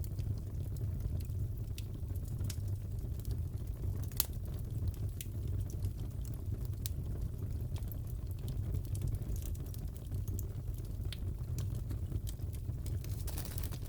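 Wood fire crackling in a fireplace: scattered sharp pops and snaps, one louder pop about four seconds in, over a steady low rumble of the flames.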